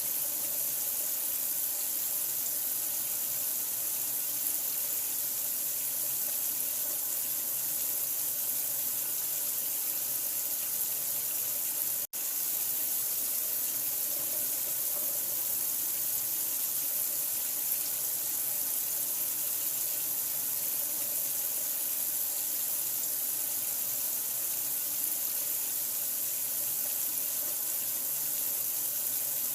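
Steady running water, an even rushing hiss that cuts out for an instant about twelve seconds in.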